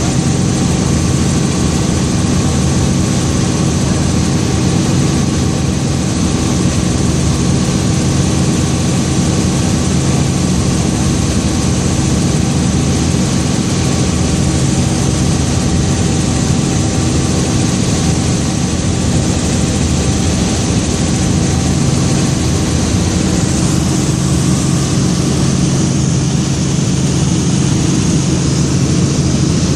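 Helicopter in flight: the steady, loud drone of its engine and rotor, with a thin high whine held over it throughout.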